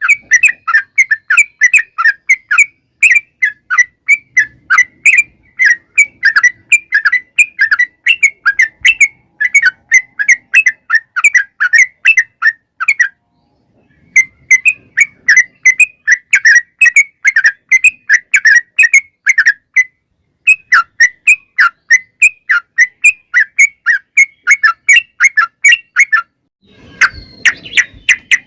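Yellow-vented bulbul (trucukan) calling in a fast run of short chirps near 2 kHz, several a second, in long bursts with brief pauses: the long rapid chatter that keepers call ropel panjang. Near the end the chirping stops and a short, rougher, lower noise is heard.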